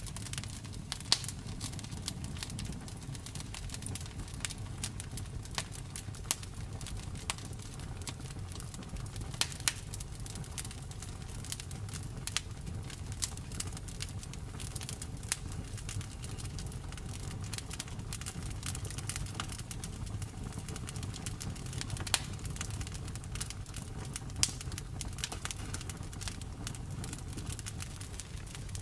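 Wood fire in a fireplace crackling: frequent sharp pops at irregular intervals, a few of them louder, over a steady low rumble of the flames.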